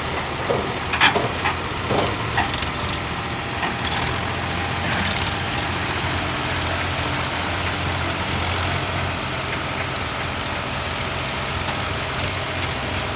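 Tractor engine running steadily, with a few sharp knocks and clicks in the first few seconds.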